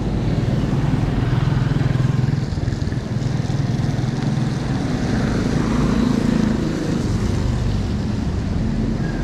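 Motor traffic: a vehicle's engine running close by, its hum shifting in pitch about two-thirds of the way through, over a steady rush of road noise.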